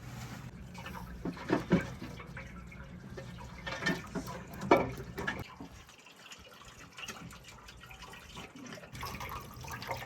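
Water pouring and splashing, with a few sharp knocks, the loudest about a second and a half in and just before the five-second mark.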